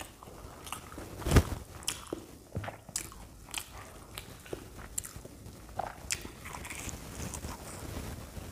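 Close-up mouth sounds of eating crisp fried puri with dum aloo: a loud crunchy bite about a second and a half in, then irregular crunching and chewing.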